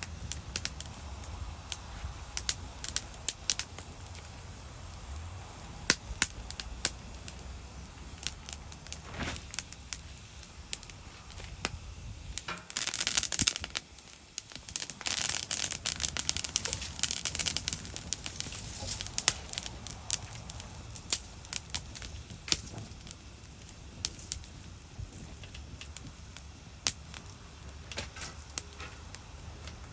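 Wood fire burning in a secondary-combustion fire pit, crackling with sharp pops scattered throughout. Around the middle there are two stretches of louder rushing hiss.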